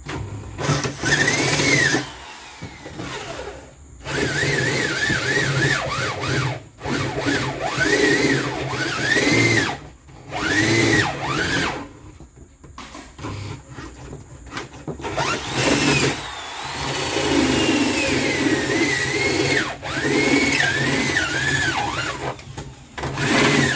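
Power drill running in a string of bursts of one to three seconds, its motor whine rising and falling in pitch as the trigger is squeezed and eased, with short pauses between bursts.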